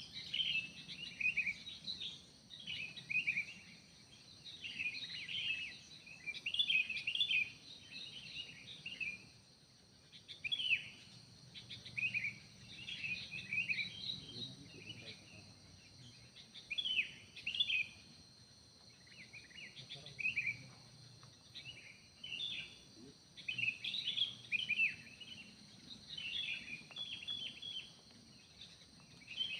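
Wild forest birds singing: bursts of quick sweeping chirps, repeated every second or two with short pauses, over a steady high hiss.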